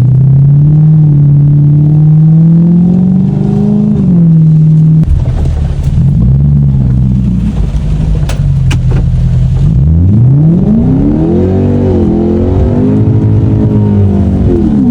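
Lexus car engine revving under hard acceleration. Its pitch holds high, then drops sharply about four seconds in. It climbs steeply again around ten seconds in and falls back near the end.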